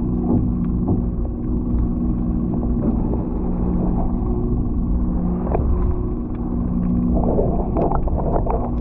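Steady mechanical drone aboard a moored boat, a low rumble with a steady hum, under small ticks and knocks of water against the hull, with a brief jumble of irregular knocks near the end.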